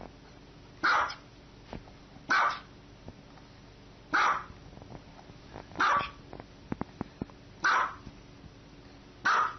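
Small dog barking: six short, high-pitched barks, evenly spaced about every one and a half seconds.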